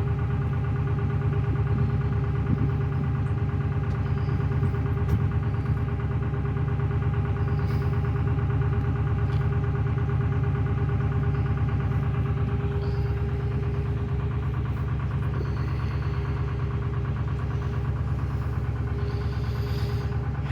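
Narrowboat's Lister SR2 two-cylinder air-cooled diesel running steadily under way: an even low throb with a steady whine above it.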